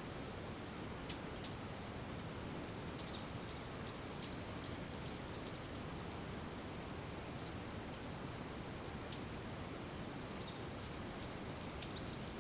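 Steady rain with scattered drips. Twice a bird gives a quick run of high, repeated chirps, once a few seconds in and again near the end.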